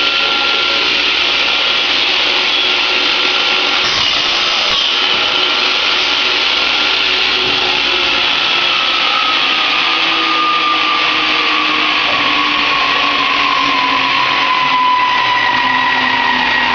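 An electric power tool's motor running with a loud, steady whine whose pitch slowly sinks over the whole stretch.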